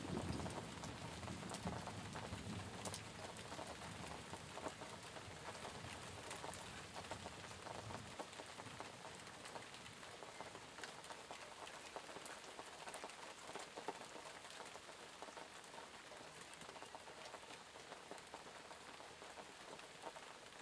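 Steady rain falling, with many separate drops ticking. A low thunder rumble dies away over the first several seconds.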